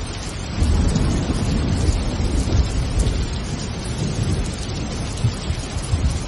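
Steady rain with thunder rumbling low underneath, the rumble swelling up about half a second in and rolling on.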